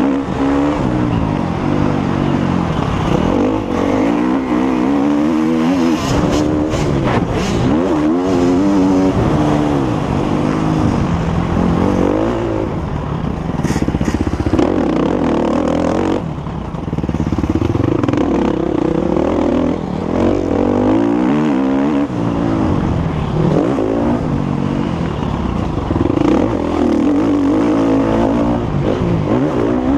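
Motocross bike engine being ridden hard, revving up and falling back over and over as the throttle is opened and shut and gears change, the pitch climbing and dropping every few seconds. The level dips briefly about halfway through.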